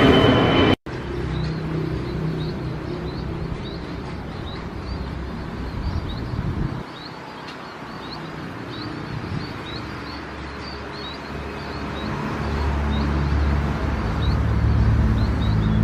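A jet airliner's engines running with a high whine, cut off abruptly under a second in. After that, small birds chirp repeatedly over a low engine rumble that grows louder in the second half.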